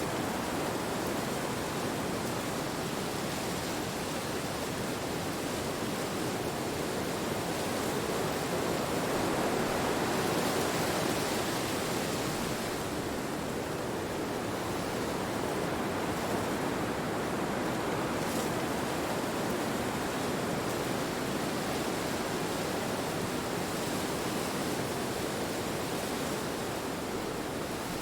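Wind blowing through trees: a steady rushing noise that swells for a few seconds about a third of the way in, then settles back.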